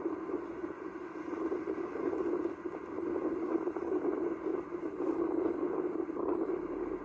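Heavy rain falling in a steady, dense rush.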